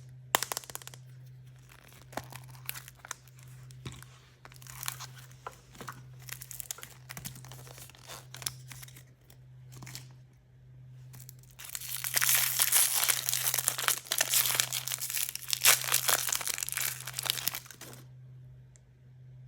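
Toy packaging being handled and torn open by hand: scattered rustles and small clicks, then about twelve seconds in a dense, louder stretch of tearing and crinkling lasting about six seconds before it stops. A faint steady low hum runs underneath.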